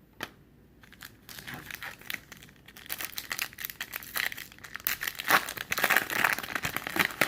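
Foil trading-card pack being torn open and its wrapper crumpled: a run of crinkling and tearing that grows louder from about three seconds in and stops suddenly at the end.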